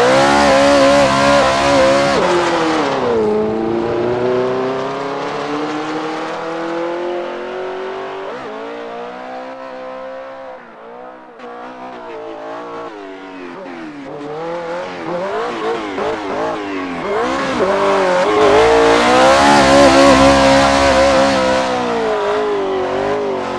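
Engine-swapped VAZ 2105 drifting: the engine's revs rise and fall repeatedly, with tyre squeal. It is quietest about ten seconds in, then builds again, with the engine and tyres loudest near the end.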